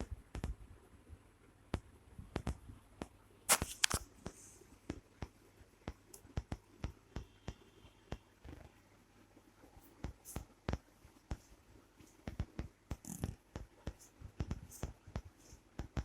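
Cat and kitten scuffling with a person's hand: irregular light taps and rustles, with a louder rustle about three and a half seconds in.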